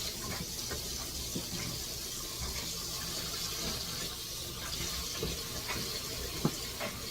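Kitchen faucet running steadily into a sink while dishes are washed, with a few faint clicks. A washing machine is running underneath.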